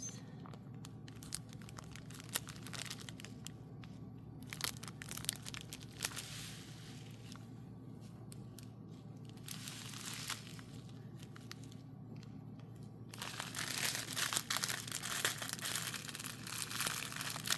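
Crinkling and rustling of a diamond painting canvas and its plastic cover film being handled, with scattered small clicks. The crinkling grows louder and denser near the end.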